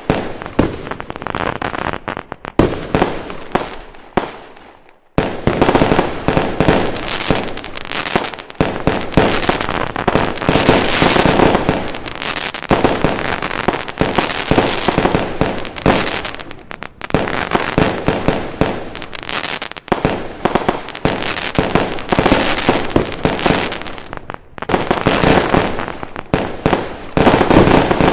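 Fireworks going off in a dense, continuous barrage of bangs and crackles, with a brief lull about four seconds in.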